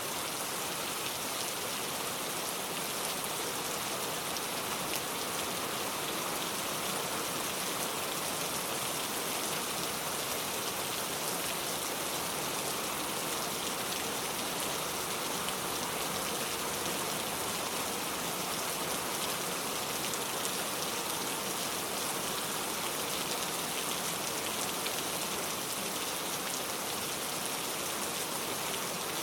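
Steady rain falling: an even, unbroken hiss of many drops that neither builds nor eases.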